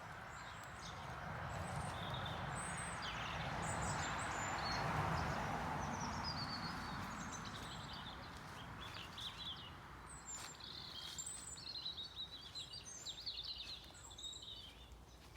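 Mixed winter chorus of songbirds, tits, finches, blackbirds and robins, with many birds calling and singing at once as short chirps and trills. The calls grow busier in the second half. Over the first half a rushing background noise swells and then fades.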